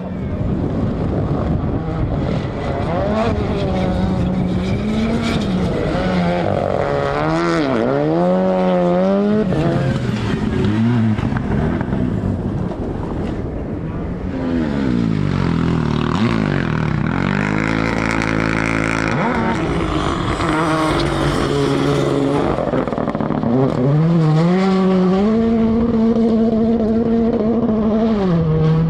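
Rally car engines driven hard on a stage, the revs climbing and dropping again and again with gear changes and lifts off the throttle.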